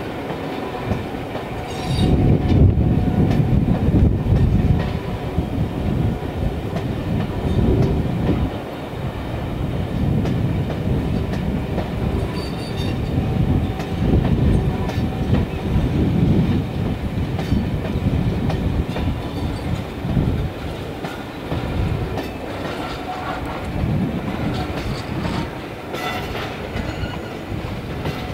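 Passenger coaches of a loco-hauled train rolling slowly past, a steady low rumble that swells and fades with the clatter of wheels over rail joints.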